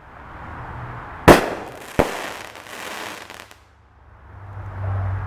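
An aerial firework bursting overhead: a loud bang about a second in, a second sharp report just after, then about a second and a half of crackling that fades out. A low steady hum comes up near the end.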